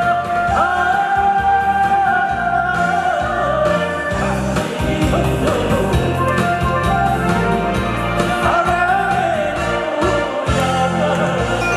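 A singer performing a song over instrumental accompaniment, holding long notes with vibrato.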